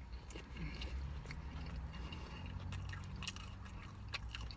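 A man chewing a mouthful of soft slider burger: wet smacking and small clicking mouth sounds, with a low steady hum underneath.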